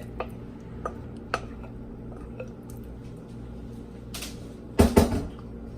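Kitchen utensil clicking lightly against a pot of cheese sauce a few times, then two loud knocks close together near the end.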